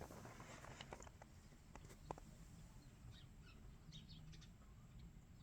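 Near silence: faint room tone with a few light clicks in the first two seconds and faint, short high chirps in the second half.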